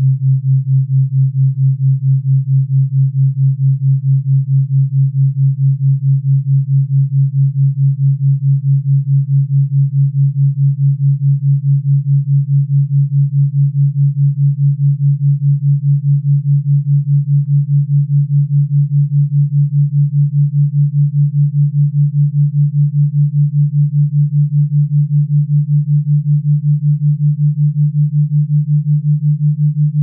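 Brainwave-entrainment tone: a steady, low, pure hum that pulses evenly in loudness several times a second.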